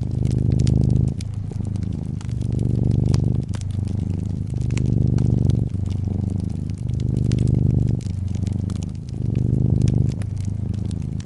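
A cat purring in a steady rhythm, louder on each breath one way and softer on the other, for about five breath cycles. Small sharp crackles of a wood fire in a fireplace run over it.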